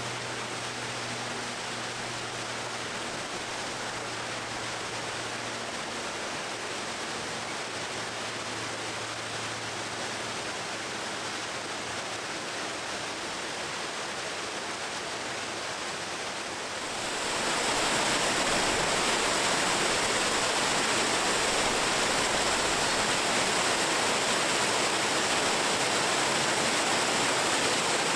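Waterfall: a steady rush of falling water, which grows louder about seventeen seconds in.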